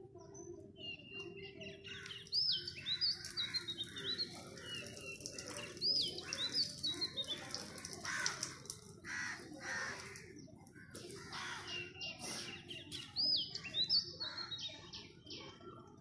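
Songbird singing repeated phrases of quick whistled chirps that sweep up and drop. Three louder bursts of song come about two, six and thirteen seconds in, with short noisy rushes in between.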